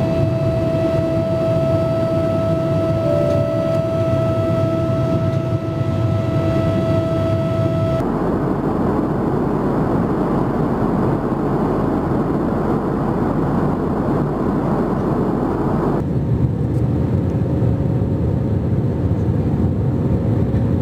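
Jet airliner cabin noise by the wing, three separate flights cut together about every eight seconds: first a steady high engine whine over the rumble, then a louder even rushing roar, then a lower, duller rumble.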